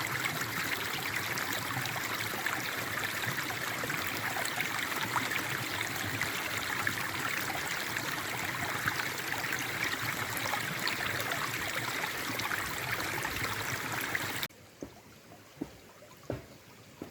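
Forest stream running steadily with a trickling, splashing rush. About fourteen seconds in the sound cuts off abruptly to a much quieter background with a few short, soft drips or knocks.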